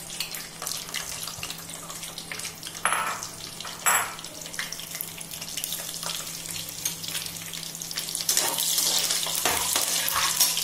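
Cashews and whole spices sizzling and crackling in hot ghee, with two short clatters about three and four seconds in. The sizzle grows louder near the end.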